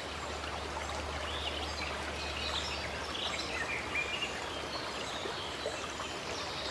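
Steady rush of running water, with birds chirping now and then above it.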